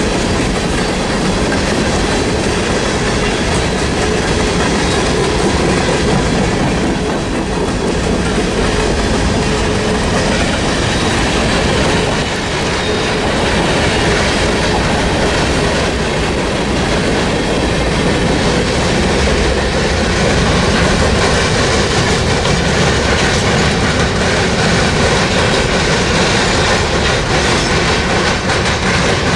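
Train cars rolling past at speed, a steady loud rumble of wheels on rail that does not let up.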